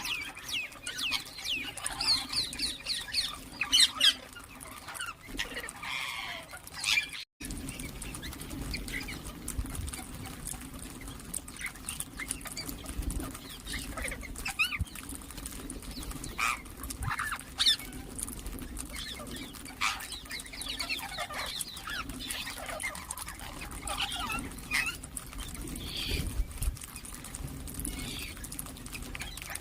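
Indian ringneck parakeets chirping and calling in many short, high bursts. About seven seconds in there is a brief cut, after which a steady low hum runs under the calls.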